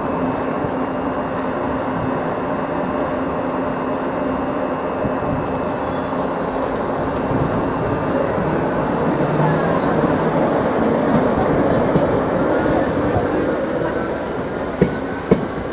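South Western Railway Class 458 electric multiple unit at a level crossing: a steady rail rumble with a faint whine that rises in pitch through the middle. Two sharp clicks come near the end.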